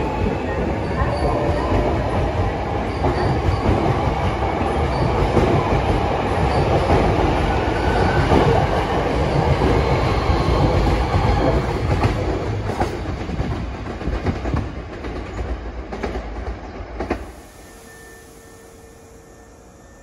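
Maroon Hankyu electric train running past on the platform track, with a whine and a steady rumble of wheels on rail and several sharp clacks over rail joints. The noise cuts off sharply about 17 seconds in.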